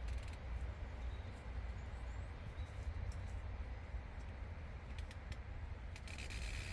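Meadow ambience: a steady breeze rumbles on the microphone, with faint birdsong and a few soft clicks. A short rustle comes near the end.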